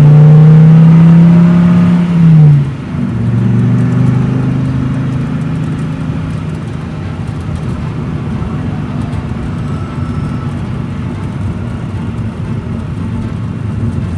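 Small motor running with a loud, steady whir. Its pitch drops about two and a half seconds in, as if it has taken on load, then it runs on evenly.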